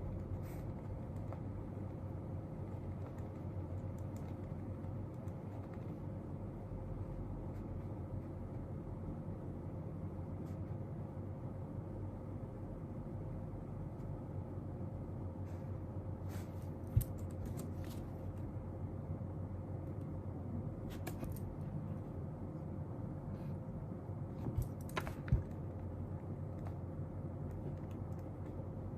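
Steady low room hum with a faint constant tone, and now and then the soft taps and clicks of someone working at a desk, with a couple of sharper knocks.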